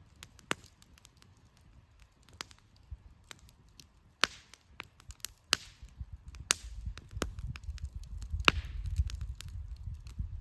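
Burning firewood crackling, with scattered sharp pops and snaps, a few followed by a brief hiss. A low rumble comes in about halfway through.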